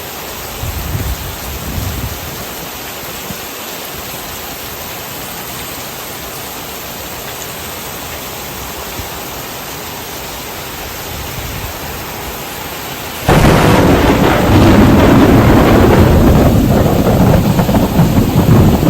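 Steady heavy rain, with faint low rumbles of thunder about a second or two in. About two-thirds of the way through, a much louder, rough, rushing rumble cuts in suddenly and lasts to the end.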